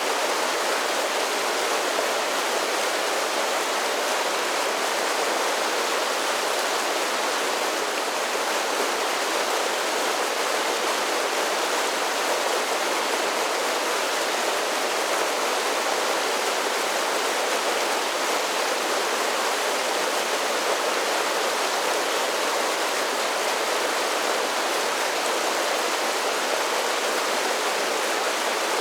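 Creek water rushing steadily down a series of small falls, an even rush with no breaks.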